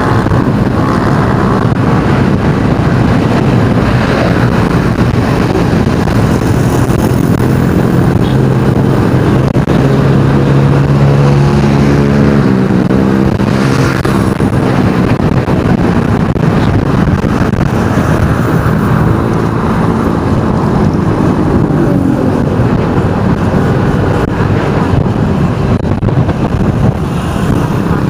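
Engine of a moving vehicle running loudly through city traffic, with road and wind noise. Its pitch climbs for a few seconds about a third of the way in, drops suddenly, then rises and falls again later as the vehicle speeds up and slows.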